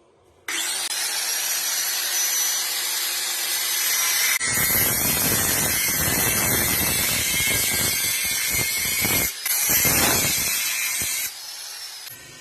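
A power tool's motor runs up with a high whine, working on the scooter's exhaust pipe metal. From about four seconds in it bears into the metal with a heavier, harsher sound, breaks off for a moment past nine seconds, and stops about a second before the end.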